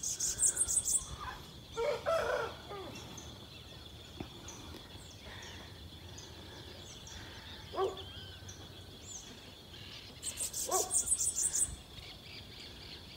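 Small birds in the trees calling in quick runs of high-pitched chirps, near the start and again about ten seconds in, over a steady high buzz.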